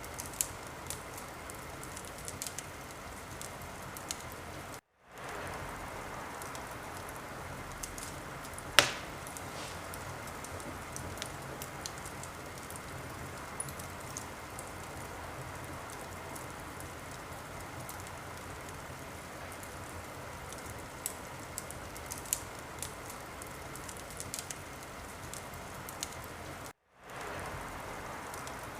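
Wood fire crackling in a fireplace: a steady hiss with frequent small pops and one louder pop about nine seconds in. Twice the sound cuts out for a moment and fades back in.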